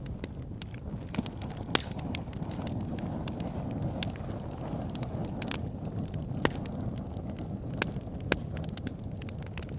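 Wood fire burning in a fireplace: a steady low rumble of flames with frequent sharp crackles and pops from the logs, a few of them louder.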